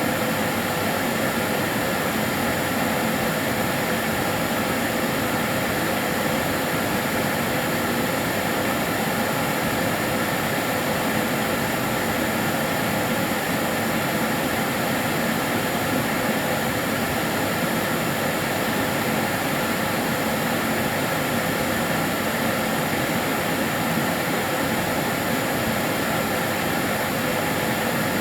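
Kärcher DS 6 Premium water-filter vacuum cleaner running steadily: a constant rushing whoosh of its motor and airflow, with a faint steady whine on top.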